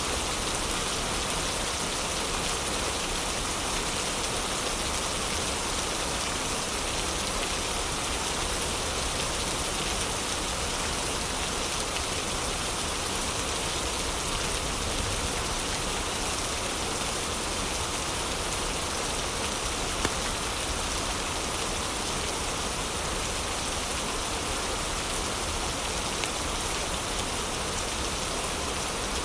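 Heavy rain falling steadily, with one sharp click about twenty seconds in.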